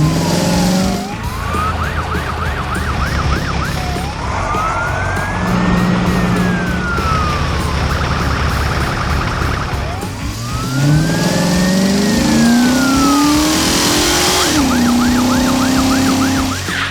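Police car siren, switching between a fast warble and two long rising-and-falling wails, over background music. An engine revs up underneath the second wail.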